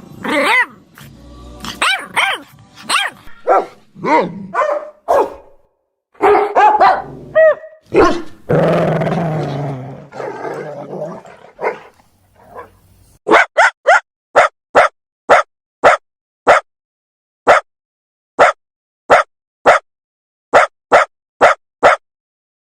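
Dogs barking: first a string of barks of varying pitch with a rough growl about nine seconds in, then, after a short pause, a run of short, sharp barks at an even pace, about one and a half a second.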